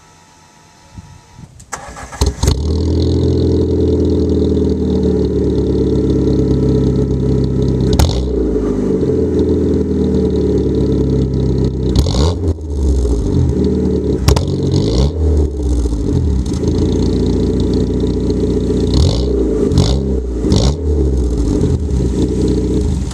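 Fiat Punto Mk2 with a Sportex aftermarket rear exhaust box, starting up about two seconds in after a brief crank. It then idles and is revved in several short blips, and is shut off at the very end.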